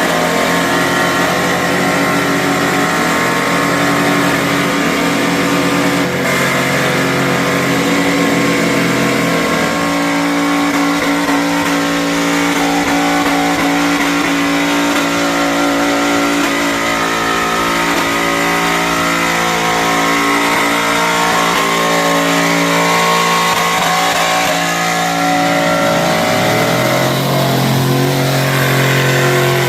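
Mud truck engines running hard at high revs, the pitch holding and shifting in steps. Near the end the engine note dips, then climbs back up.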